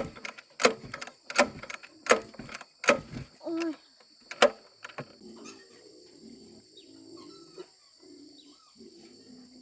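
Sharp knocks, six of them about every three quarters of a second, stop about halfway through. Soft, low farm-animal calls follow, over a steady high insect drone.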